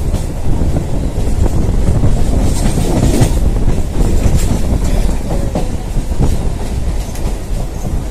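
Electric multiple-unit commuter train running at speed, heard from an open window in the coach: a steady loud rumble with the clacking of wheels over rail joints.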